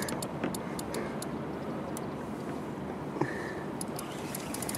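Steady rush of river current with the spinning reel's drag clicking now and then as a hooked pike pulls line.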